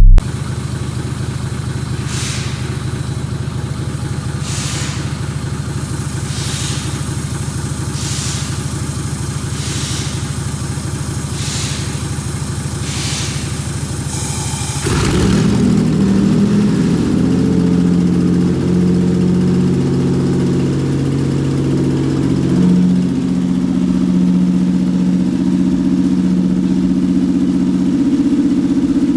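A Toyota 3GR V6 engine on a test stand is cranked over by its starter for about fifteen seconds, with a few short hisses. It then fires and settles into a steady idle on its first start.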